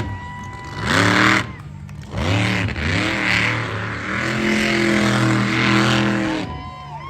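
A high-performance engine revving: two short blips of throttle, then a longer rev held high for a couple of seconds before it drops off near the end.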